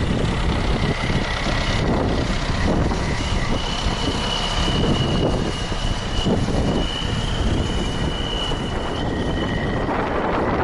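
Tractor's diesel engine running steadily while clearing snow, with a thin high whine over the engine noise.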